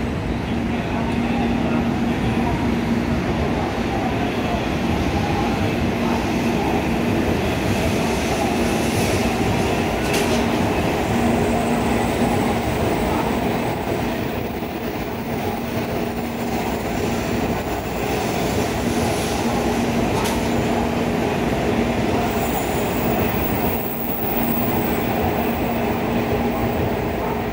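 Shinkansen trains standing stopped at a station platform, giving a steady mechanical hum with a low, steady tone. A few faint clicks come about ten and twenty seconds in.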